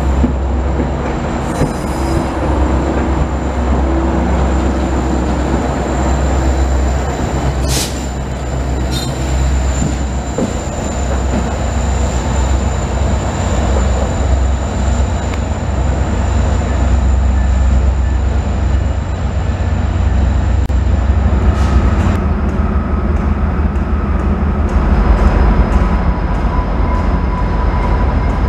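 GO Transit push-pull commuter train of bilevel coaches with an MP40PH-3C diesel locomotive moving through the station: a low diesel rumble with wheel-on-rail noise and a thin steady high squeal. There is a sharp bang about eight seconds in. Near the end the squeal stops and a few faint steady tones come in.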